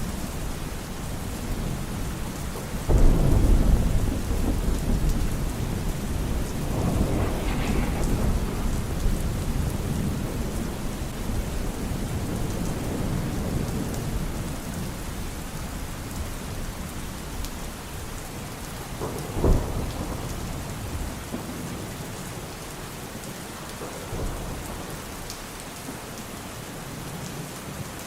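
Thunderstorm: steady rain hiss with rolling thunder. A thunderclap about three seconds in rolls into a long rumble, a sharper crack comes about twenty seconds in, and the rumbling dies down toward the end.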